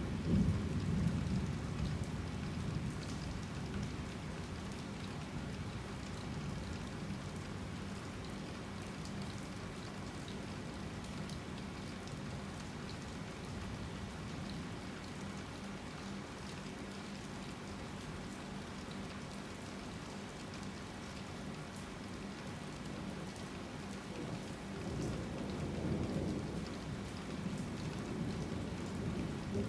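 Rain falling steadily, with a low thunder rumble dying away in the first few seconds and another rolling in a few seconds before the end.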